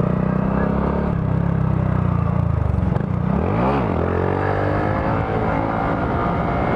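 Honda Grom's small single-cylinder engine running steadily, then a quick rev about three and a half seconds in that rises and falls, as the rider pulls a wheelie.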